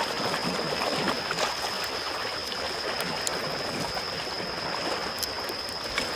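Small waves washing steadily on a shore, with a campfire crackling: a few sharp pops and snaps scattered over the water.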